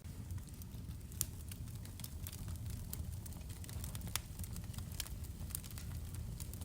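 Wood fire in a fireplace crackling, with scattered pops over a steady low rumble. Two louder pops come about a second in and about four seconds in.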